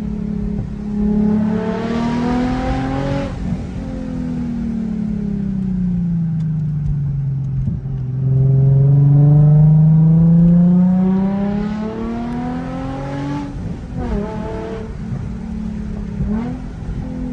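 Nissan 350Z Nismo's 3.5-litre V6 through the stock Nismo exhaust and a Tomei single-exit axle-back, revving up and down while driven hard through bends. The revs rise about a second in and fall off near three seconds. They then climb to a loud full-throttle pull that peaks about eight to eleven seconds in and drops suddenly near thirteen seconds, followed by quick rev changes.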